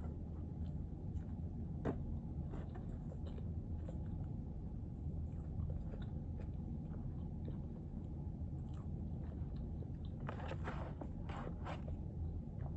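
Close-up eating sounds: chewing and biting, with a run of crunchy bites near the end, over a steady low hum.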